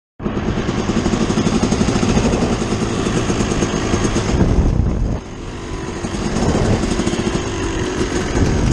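Dirt bike engines running while riding, the engine note dropping suddenly about five seconds in and building back up over the next second or so.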